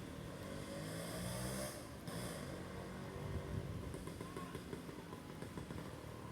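An engine running with a low, rough rumble, its pitch rising briefly about a second in, under wind in the trees. A gust of leaf rustling swells for a second or two near the start.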